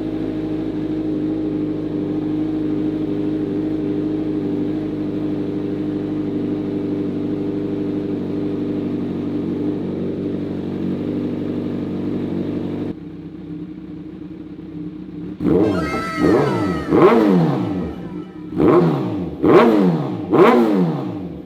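Kawasaki Z1000R's inline-four engine idling steadily through its new custom exhaust. About two-thirds in, the sound changes abruptly to a quieter idle, then the engine is revved in five or six quick throttle blips, each rising sharply and falling back.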